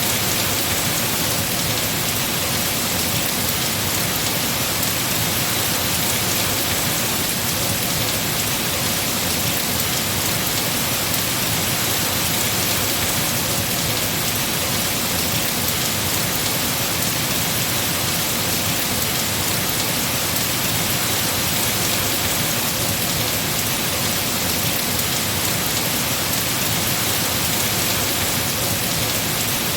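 Heavy rain falling steadily on trees, a dense even hiss with no breaks.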